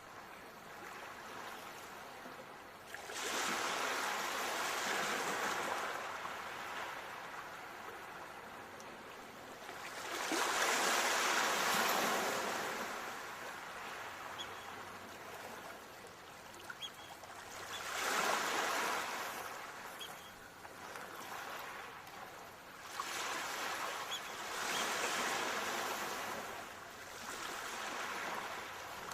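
Ocean waves breaking on the shore and washing back, four surges each rising to a peak and slowly fading, about one every seven seconds.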